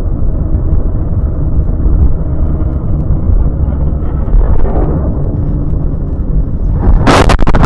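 Steady low road and engine rumble of a moving car as picked up by a dashcam, then about seven seconds in a loud crash lasting under a second: a collision.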